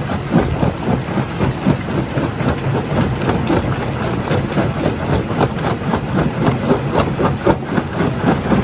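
Rock crusher running under load: a steady heavy machine drone with a dense, irregular clatter of stones knocking and breaking.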